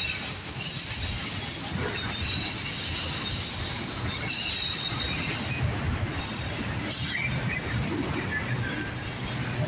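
Loaded autorack freight train rolling past, a steady rumble of steel wheels on rail with thin high-pitched wheel squeal coming and going over it.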